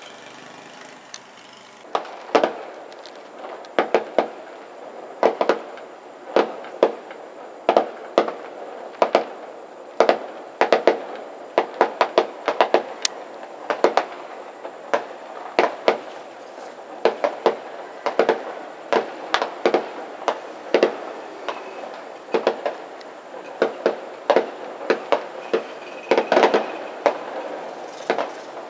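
Fireworks going off in a long irregular volley of sharp bangs, often several in quick succession. The bangs start about two seconds in.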